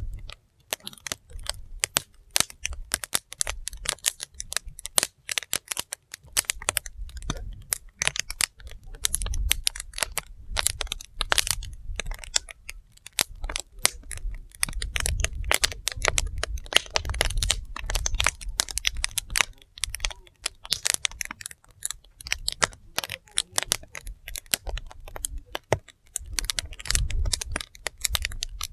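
Wood fire burning: dense, irregular crackling and popping of burning firewood over a low, uneven rumble.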